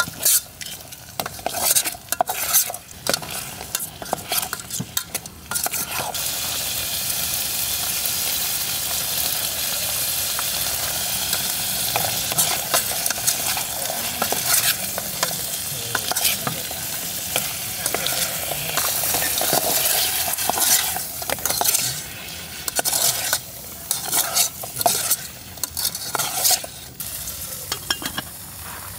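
Shrimp and garlic frying in hot oil in an aluminium camping pot, sizzling steadily. A utensil clatters and scrapes against the pot as it is stirred, through the first few seconds and again near the end.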